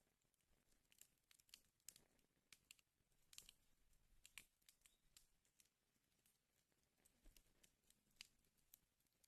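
Wood fire crackling faintly in a fireplace, with irregular sharp pops and snaps.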